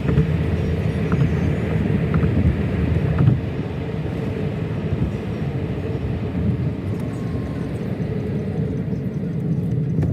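Steady low rumble of a moving vehicle, like car engine and road noise, with a few faint clicks in the first few seconds.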